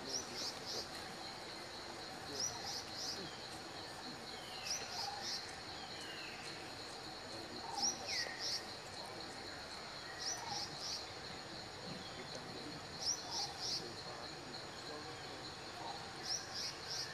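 A bird repeating a short phrase of three or four quick high notes every two to three seconds, with a few lower falling whistles in between, over a steady high insect whine.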